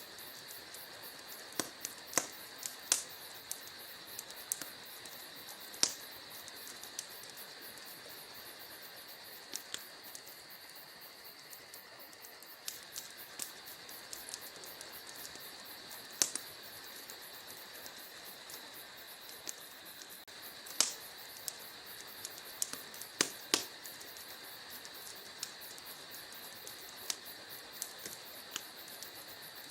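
Wood fire crackling in a fireplace: irregular sharp pops and snaps, a handful much louder than the rest, over a steady hiss.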